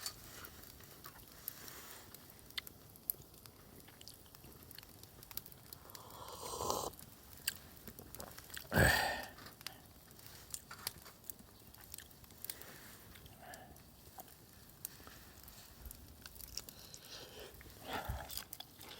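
Someone eating: chewing, with scattered small clicks and taps and a louder sound about nine seconds in.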